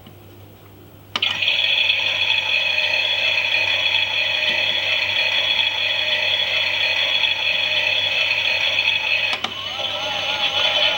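Toy washing machine's small electric motor and plastic gears switching on abruptly about a second in and running with a steady high whine and gear chatter. Near the end the pitch changes and starts to waver up and down.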